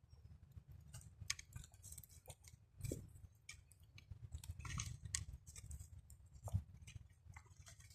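Faint, irregular crunching footsteps on a trail, over a low rumble of wind on the microphone.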